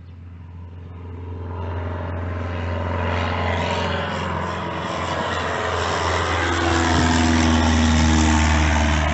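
A motor vehicle's engine growing steadily louder as it approaches, with a sweeping whine in its pitch.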